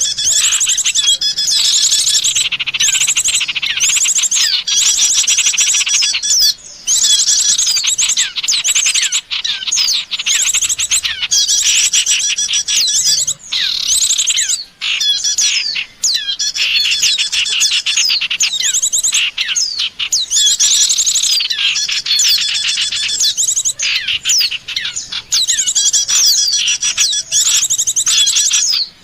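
Recorded small songbirds used as a bird-luring call: dense, high-pitched chirping and rapid trills from several overlapping birds, going on almost without pause, with a few brief gaps.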